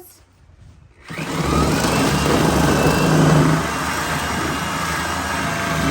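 A power tool's motor starts about a second in and runs steadily and loudly, cutting coconuts.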